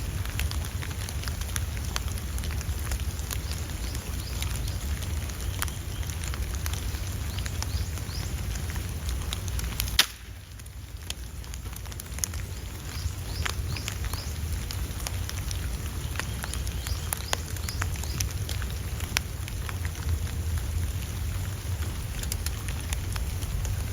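Steady low wind rumble with scattered small crackles and ticks throughout. A sharp click about ten seconds in, after which the sound is briefly quieter.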